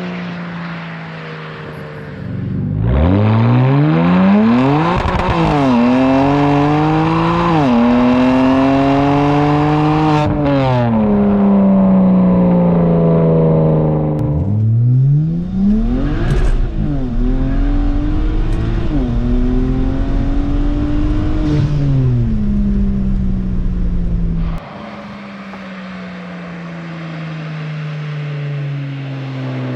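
Twin-turbo inline-six exhaust of a 2009 BMW 335xi, with catless downpipes and the muffler and resonator deleted, at full throttle twice: the note climbs fast and drops back briefly at each upshift, then lifts off suddenly and runs down as the car coasts.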